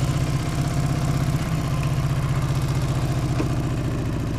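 Dnepr MT-10-36 motorcycle's flat-twin engine running at low speed with an even, pulsing beat; its pitch shifts slightly about a second and a half in.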